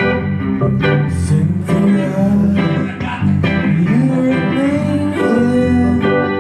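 Live band playing: guitar lines with sliding, bent notes over bass, with regular sharp percussive hits.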